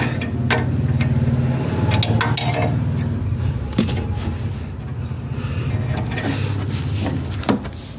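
Car engine running steadily, with scattered metallic clinks and taps over it and one louder knock near the end.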